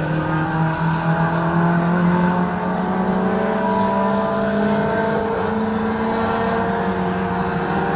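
A racing Mini's four-cylinder engine pulling hard at high revs, its note climbing slowly and steadily in pitch.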